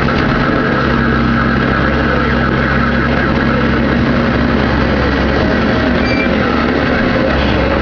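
Heavy diesel engine running at a steady speed, a constant low hum.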